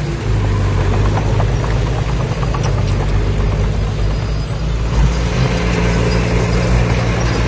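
Heavy earthmoving machinery running: a large diesel engine keeps up a steady low drone, with scattered light clanks and knocks over it.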